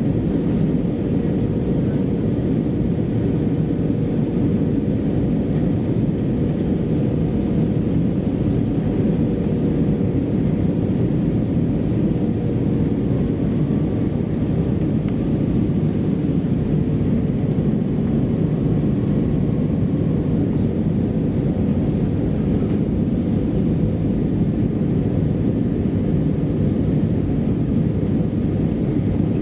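Steady cabin noise inside an Airbus A320-214 in flight: an even low roar of airflow and its CFM56 engines, with a faint steady hum.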